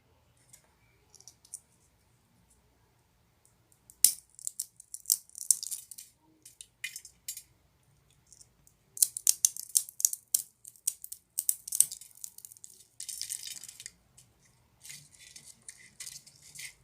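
Crinkling and rattling of a Kkobuk Chip snack bag and the chips inside as it is handled, in three spells of sharp crackly clicks with short pauses between.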